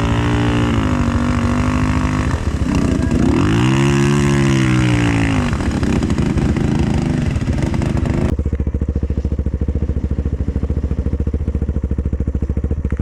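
Vehicle engine revving, its pitch rising and falling twice, with a hiss over it. About two-thirds through, the hiss cuts off suddenly and the engine settles to a steady idle.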